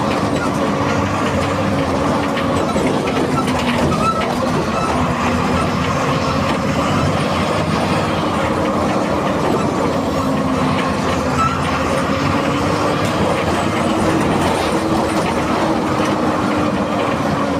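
VW 17-230 EOD bus's MWM 6.12 TCE 7.2-litre six-cylinder turbo-intercooled diesel running under way, a steady drone whose pitch drifts slightly up and down, with a clattering rattle underneath.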